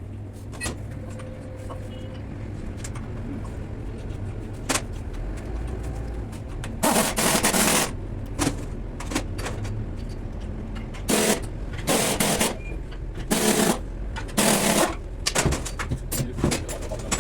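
Impact wrench run in several short, rapid hammering bursts of about half a second to a second each, over a steady low hum.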